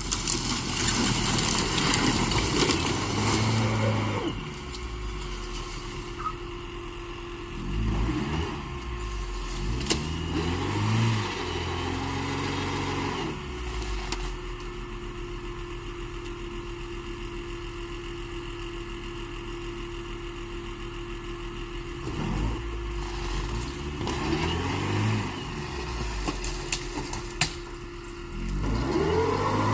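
Car engine revving up and down in repeated surges, with quieter stretches between, as the car tries and fails to drive out of the spot where it is stuck. A steady whine runs underneath.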